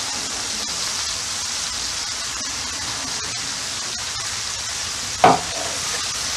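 Skirt steak, onions and peppers sizzling steadily on a hot flat-top griddle, with faint crackling. One brief louder sound about five seconds in.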